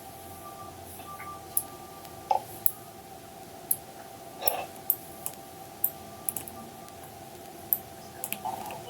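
Computer mouse and keyboard clicking in short irregular taps while working in a 3D modelling program, over a steady faint hum.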